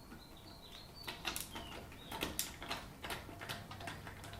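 Ratchet screwdriver clicking in short irregular runs while loosening screws. Faint high bird chirps come in during the first second or two.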